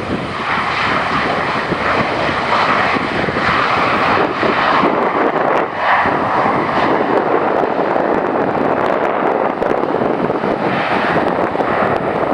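Airbus A320's jet engines roaring loud and steady during the landing, a rushing noise that builds at the start and holds with small swells.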